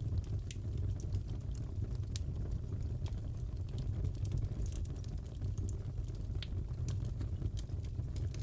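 Crackling fireplace fire: a steady low rumble of the flames with irregular sharp pops and snaps, a few each second or two.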